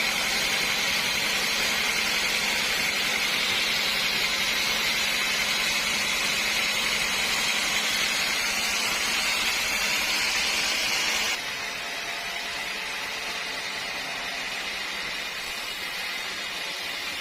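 Sawmill machinery running: a steady, hissing mechanical noise that drops suddenly in level about eleven seconds in, then carries on steadily.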